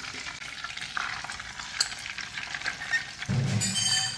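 Marinated chicken pieces sizzling as they shallow-fry in a little oil in a cast-iron kadai. The sizzle is steady, then louder for a moment near the end.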